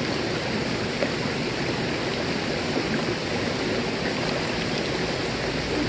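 Mountain stream water rushing and splashing over rocks, a steady flowing sound with small splashes in it.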